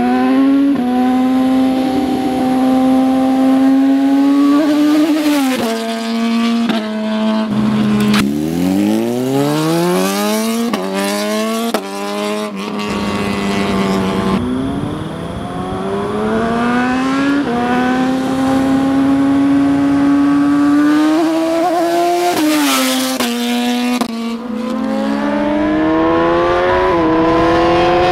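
Sport-bike engine revved hard through its exhaust. It holds a high steady note for several seconds, drops, then climbs again from low revs in stepped sweeps, several times over.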